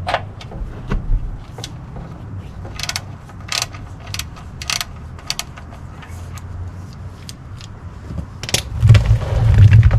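Ratchet clicking in short runs as the oil drain plug is backed out with a hex socket. Near the end a louder rush sets in, the oil starting to pour into the drain box.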